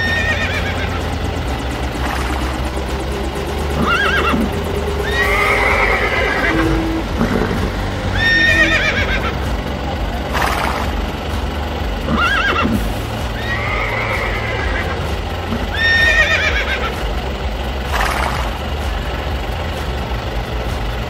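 A horse neighing again and again, one whinny about every two seconds, over background music with a steady low bass.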